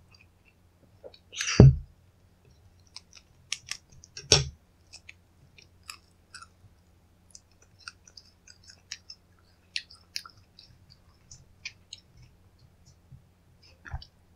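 A crisp waffle-pressed snack being cracked apart: two loud crunches about a second and a half and four seconds in, then many small scattered crackles and clicks.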